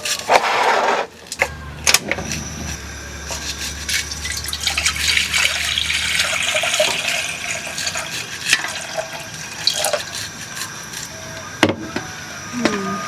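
Water pouring and splashing into a container, steady for a few seconds, with scattered knocks and clinks throughout.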